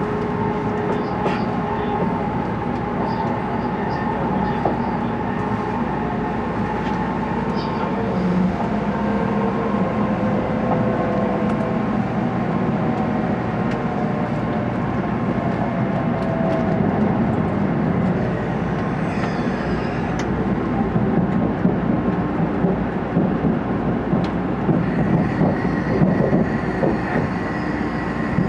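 Running noise of an N700A Shinkansen train heard from inside the vestibule: a steady rumble and rush of wheels and air, with faint tones drifting slowly down in pitch midway through as the train slows into a station. The noise grows more uneven and clattery in the last few seconds.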